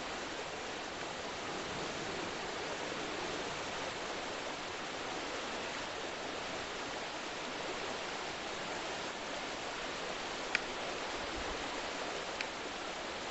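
Steady rushing sound of running water, with two sharp clicks near the end.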